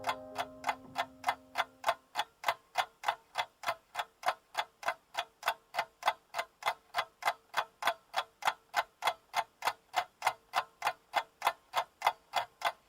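Steady, evenly paced clock-like ticking, about three ticks a second, over a faint steady tone. The last held notes of music fade out in the first two seconds.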